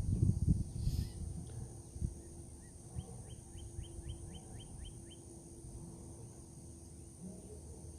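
Outdoor ambience with a low rumbling noise, strongest in the first second or so. A bird calls a quick run of about nine short chirps about three seconds in.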